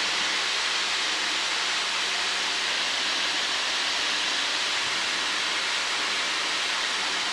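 Steady in-flight cabin noise of a Cessna 152: the engine and airflow blend into an even hiss over a faint low hum.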